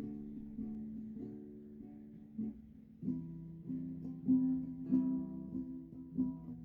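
Guitar playing a slow, improvised chord progression, picked softly at first, then strummed louder from about three seconds in.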